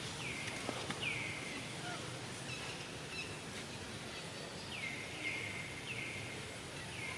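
An animal's short high calls, each sliding downward in pitch, repeated about eight times at uneven intervals over a steady background hiss.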